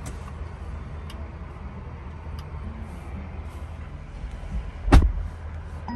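Low, steady rumble heard inside the rear cabin of a Mercedes-Maybach GLS 600, with a single sharp thump about five seconds in and a few faint ticks.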